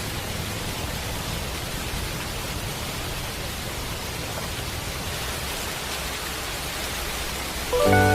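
Steady rain falling, an even hiss. Near the end, gentle music with sustained notes comes in over it.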